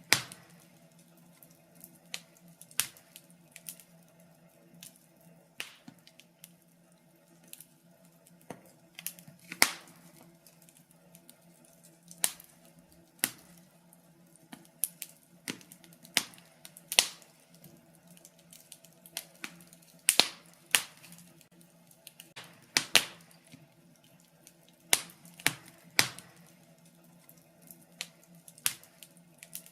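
Wood fire in a fireplace crackling, with sharp irregular pops, a few of them much louder than the rest, over a faint steady low hum.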